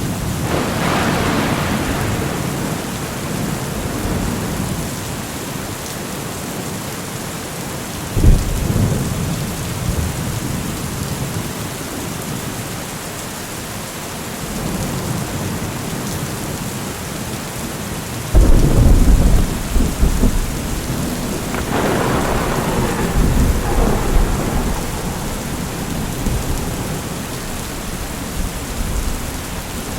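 Steady heavy rain with thunder: a sudden thunderclap about eight seconds in, and a louder clap at about eighteen seconds that rolls on as rumbling for several seconds.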